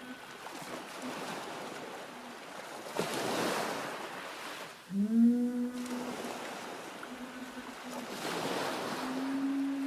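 Ocean waves surging and falling back twice, with low, long-held tones over them; one tone slides up in pitch about halfway through.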